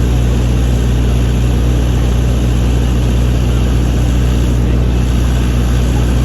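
Steady, loud low drone of a running motor or engine, with a constant deep hum under a wash of noise.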